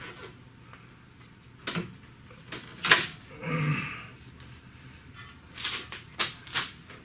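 Scattered knocks and clanks of tools and parts being handled, the sharpest about three seconds in and a quick cluster near the end.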